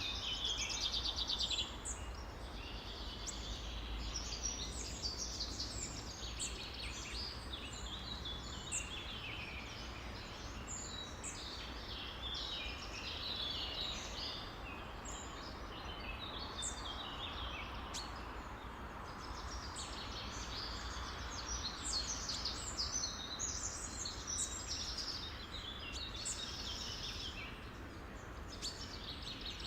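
Many songbirds chirping and singing at once in a dense, overlapping chorus of short high calls and trills, over a steady low rumble.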